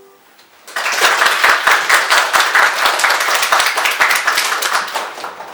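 Audience applause, starting about a second in right after the last piano chord of the accompaniment dies away, and tapering off near the end.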